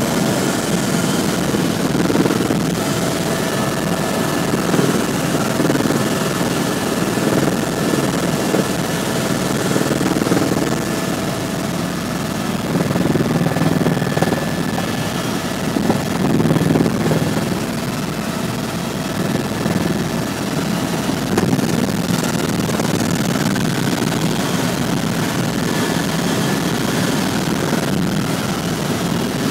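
Tour helicopter's engine and rotors running steadily in cruise, heard from inside the cabin as a loud, even drone with a faint steady whine.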